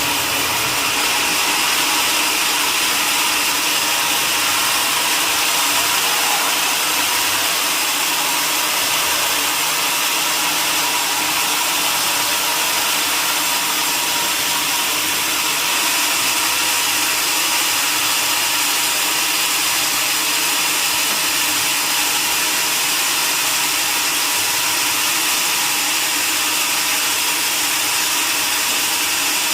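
Sawmill saw running steadily, cutting wood: an even, loud hiss with faint steady whining tones in it, unchanged throughout.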